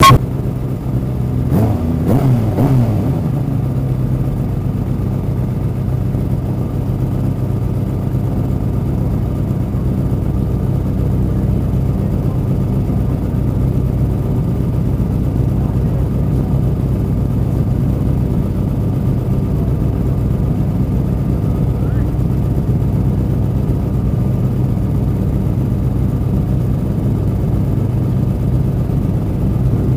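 Superbike engine idling steadily, with a brief rev about two seconds in.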